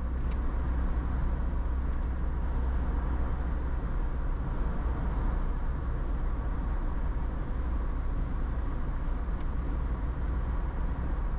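Steady road noise inside a moving vehicle's cabin at highway speed: a deep, even rumble with tyre hiss.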